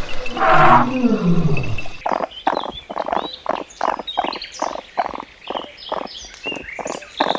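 Animal calls: a loud, low call falling in pitch, then a sudden change to a fast, even run of short calls, about three a second.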